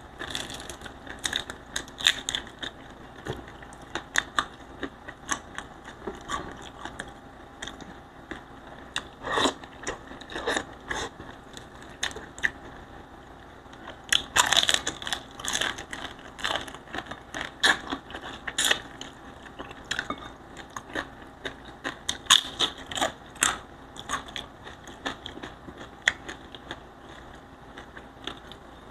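Close-miked mouth sounds of eating fried tilapia by hand: irregular crunching, chewing and wet lip smacks, with denser bursts of crackling now and then.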